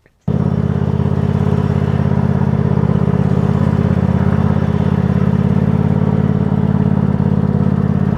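A motor starts abruptly, runs at a steady speed, then is switched off near the end and winds down.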